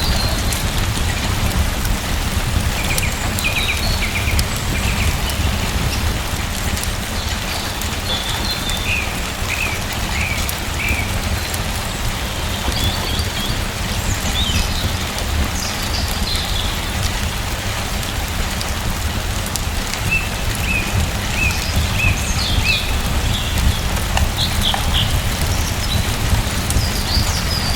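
Steady rain with a deep low rumble under it. Small birds chirp now and then in short runs of quick, high notes.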